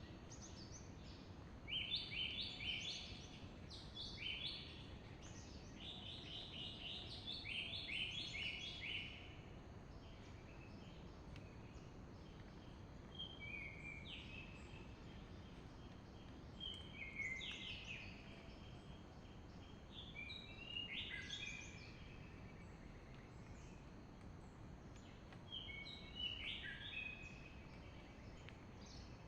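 Wild songbird singing: about seven short phrases of quick, repeated chirping notes, each a second or two long and a few seconds apart. Under it is a steady low outdoor background noise.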